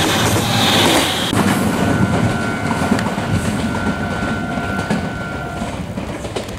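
Red Meitetsu electric commuter train running past on the tracks close by, its rail and wheel noise easing off as it pulls away. From about a second and a half in, a steady high tone holds for about four seconds over the train noise.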